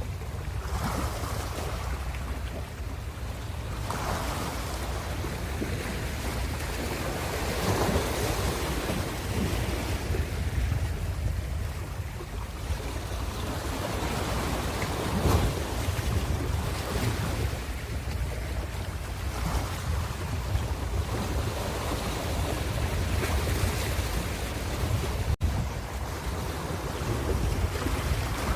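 Ocean waves breaking and washing in, swelling and easing every few seconds, over a steady low rumble.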